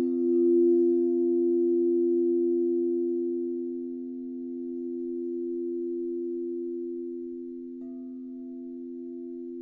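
Singing bowls ringing in long, pure sustained tones, two low tones together with a slow swell in loudness, gradually fading. A light strike about eight seconds in adds a higher tone.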